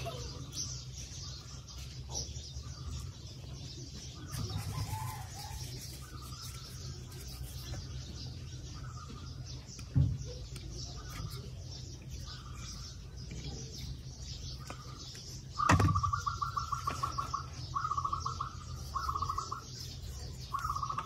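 Bird calling in short, rapid pulsed trills, repeated about once a second in the last few seconds, over a steady low hum. Two sharp knocks of small engine parts being handled, one about ten seconds in and a louder one just before the trills begin.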